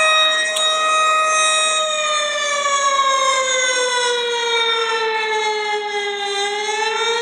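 A tornado warning siren sounds one long, steady wail. After about two seconds it slowly falls in pitch as it winds down, then turns slightly upward near the end.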